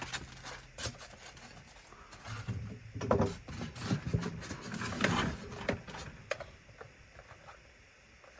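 Handling noise from a small plastic toy RC car: scattered clicks, knocks and rattles as it is picked up and turned over.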